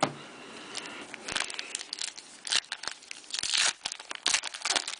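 Trading-card pack wrapper being torn open and crinkled by hand: a run of irregular crackles that grows busier in the second half.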